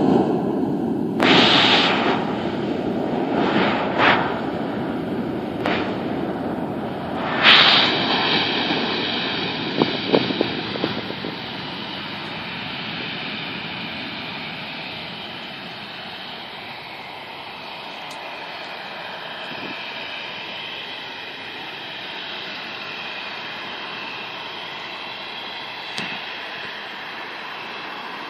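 Jet aircraft engine noise during takeoff: a loud low rumble that fades away over the first dozen seconds, with a few short rushing bursts early on. From about eight seconds in, a steady high-pitched turbine whine carries on at lower volume.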